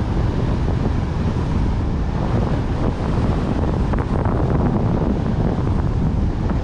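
Steady wind buffeting the microphone, a dense low rushing noise with no breaks.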